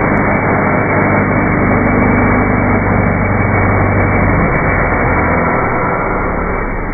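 Suzuki GSX-R600 inline-four engine running loud and steady at held revs during a burnout, under a dense hiss; the engine note shifts slightly about four and a half seconds in.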